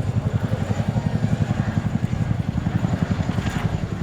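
Boeing CH-47J Chinook's tandem rotors beating in a fast, even, steady pulse, with engine and rotor noise.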